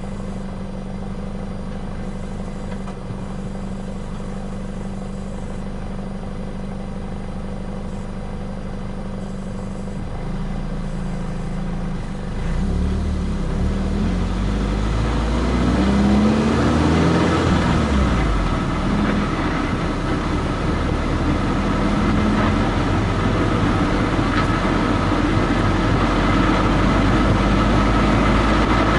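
Car driving, heard from under the rear bumper: a steady engine hum with tyre and road noise. About twelve seconds in it gets louder, the engine pitch rising and falling for a few seconds, then stays at a louder steady run of engine and road noise.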